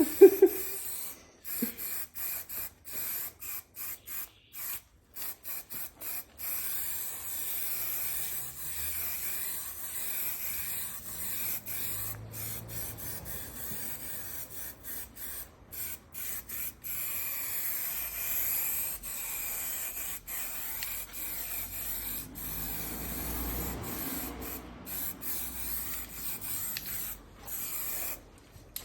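Intermittent hissing, starting and stopping many times over, with a faint low rumble in between.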